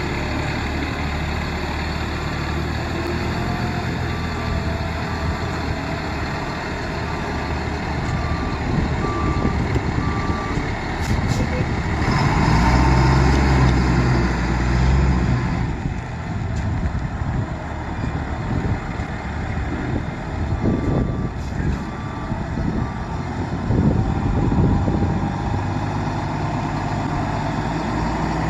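Medium-duty C7500 truck engine running, with its back-up alarm beeping about once a second while it reverses, in two spells. The engine grows louder for a few seconds near the middle.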